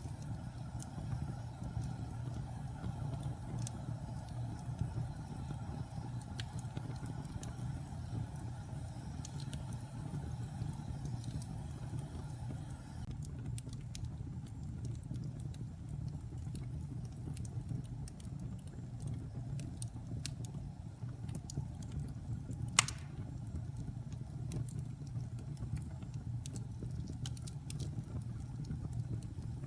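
Wood fire burning in a fireplace: a steady low rumble with scattered small crackles, and one loud sharp pop about three quarters of the way through.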